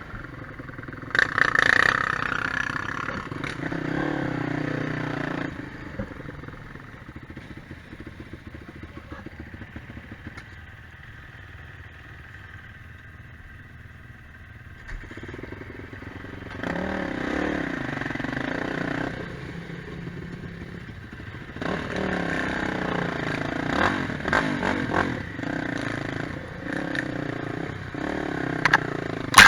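Quad bike engine revving up and easing off repeatedly while riding off-road, loud near the start and again through the second half, with a quieter stretch in the middle. Short knocks cut through the engine sound near the end.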